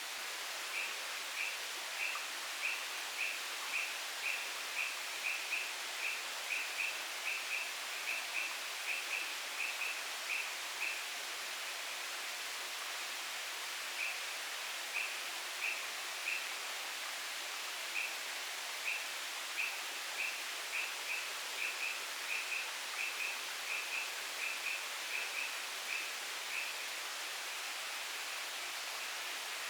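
Rainforest ambience: a steady hiss with a short, high chirp repeated about twice a second in two long runs, pausing for a few seconds between them and stopping a few seconds before the end.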